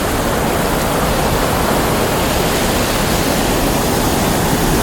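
Waterfall: water pouring and rushing in a steady, loud, even noise.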